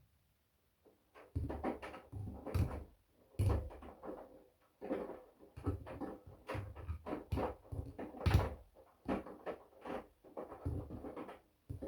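Washing machine drum turning and tumbling laundry: an irregular run of soft thuds and knocks as the clothes drop, starting about a second in and stopping near the end.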